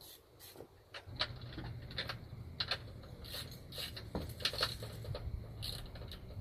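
Hand tools and metal parts clinking and knocking in a series of irregular sharp clicks, over a low rumble that starts about a second in.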